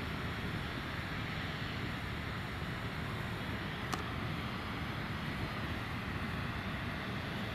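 Steady, even noise of a Boeing 777-300ER in flight, its GE90 jet engines and airflow heard as one unbroken rush, with a single faint click about four seconds in.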